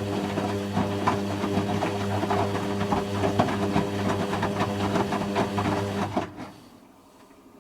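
Hoover Quattro Easylogic AE130 washing machine running on a spin, a steady motor hum with a dense rattle, cutting out about six seconds in and leaving only a faint low hum.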